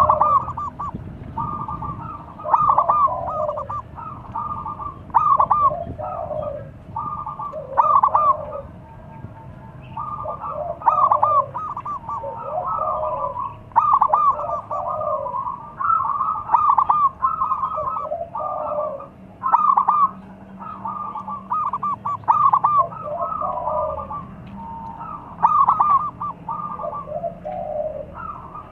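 Several zebra doves cooing at once, their short, rapid, stuttering phrases overlapping and answering one another every second or two.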